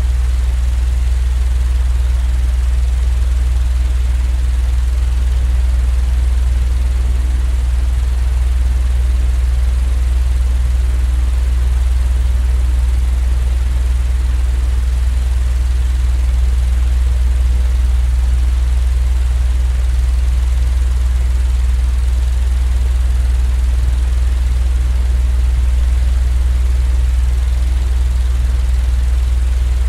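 Steady, unchanging low rumbling drone with an even hiss over it, a continuous sleep-noise track of the fan or train kind; the deep hum is the loudest part.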